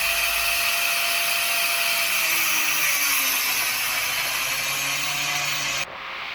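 Power tool cutting through the casing of a truck engine filter, running loud and steady with a faint shifting whine as it bites, then cutting off suddenly near the end.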